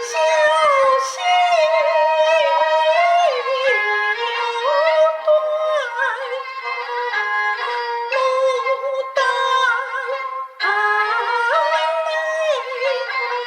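Peking opera music: a high, ornamented melody on bowed strings, typical of the jinghu, with sliding and held notes and a short break about ten seconds in.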